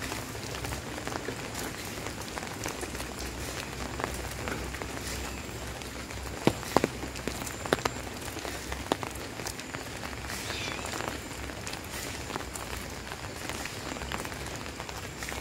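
Steady rain falling and pattering on surfaces, with scattered sharp drips; a few louder drops land about halfway through.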